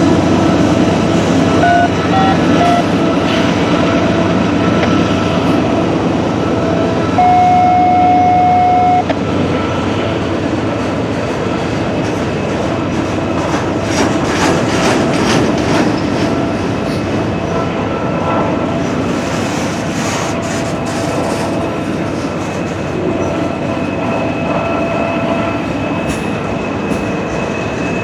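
Freight train cars rolling past at track level, wheels clattering over rail joints and crossover frogs with a steady faint metallic squeal; a louder single-pitch squeal sounds for about two seconds about seven seconds in.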